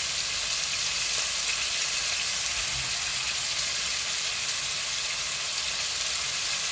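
Chicken, onions, peppers and freshly added carrots frying in oil in a pan: a steady sizzle.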